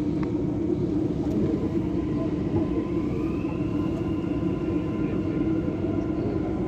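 Dubai Metro train running, heard from inside the carriage: a steady rumble of wheels and car body, with a faint motor whine that rises in pitch about three seconds in as the train picks up speed after leaving the station.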